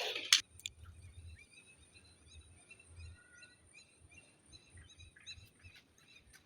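Faint bird chirping, short high chirps repeated irregularly, after a brief rustle at the very start.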